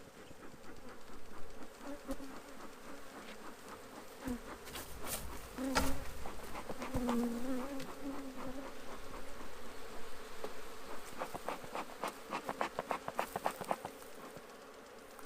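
Honeybees buzzing close to the microphone, single bees passing with a wavering hum that swells and fades, over scattered clicks and a louder knock about six seconds in. The colony has just been opened and is agitated.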